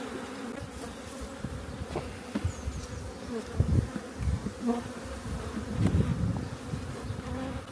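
Honeybees buzzing steadily around an open hive during a colony split, with a few low irregular rumbles and faint knocks.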